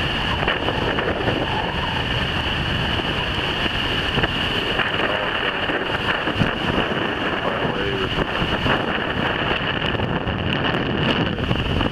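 Strong wind buffeting the microphone over the steady rush of storm surf and the flooded river breaking at the jetty.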